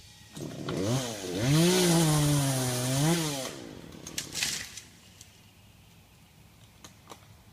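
Two-stroke chainsaw revving up, its pitch sagging and holding lower for about a second and a half as it cuts into wood, then revving again and stopping about three and a half seconds in. A couple of brief scraping noises follow.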